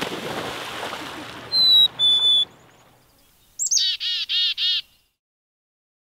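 Water splashing as a person swims in a pond, fading away over the first few seconds. Over it a small bird gives two clear whistled notes, the second a little lower, then, about a second later, a quick run of four harsh calls.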